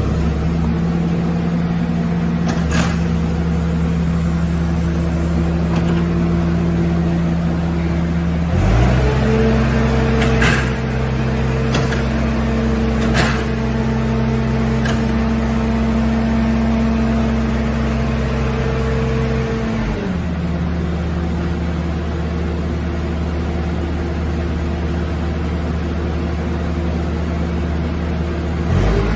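Skid-steer loader engine running steadily, powering the hydraulics of a Bobcat asphalt planer attachment. The engine note steps up about nine seconds in, holds, and drops back about twenty seconds in, with a few sharp clicks in between.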